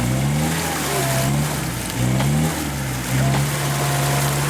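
Off-road 4x4's engine revving up three times, the pitch rising with each, then held at steady high revs through the last second and more.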